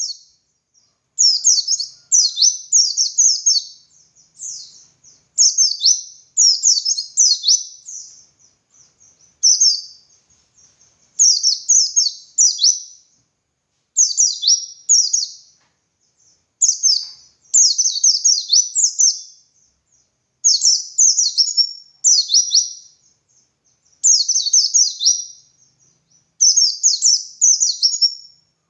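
White-eye (pleci) singing: bursts of rapid, high-pitched twittering phrases, each a second or two long, repeated over and over with short pauses between them.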